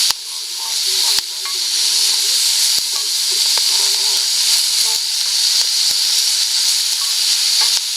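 Food sizzling steadily in a carbon-steel crepe pan over a campfire, with a few sharp clicks.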